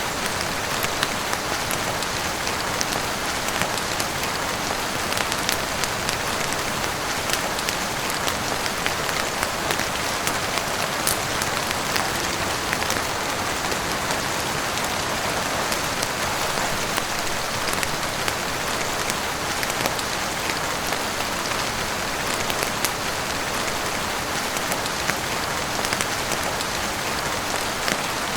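Heavy rain falling on a roof and windows: a steady, even hiss dotted with scattered sharp ticks.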